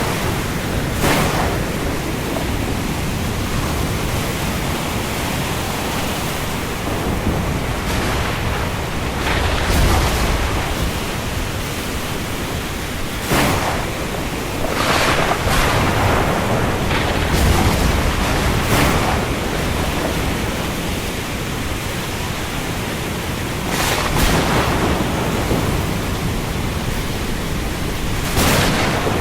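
Steady rain over open sea with waves, a constant even hiss broken every few seconds by a brief splash or surge of water, about seven in all.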